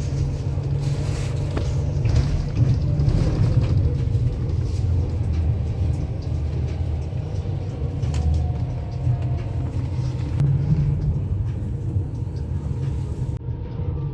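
Steady low rumble of a bus's engine and road noise, heard from inside the moving bus.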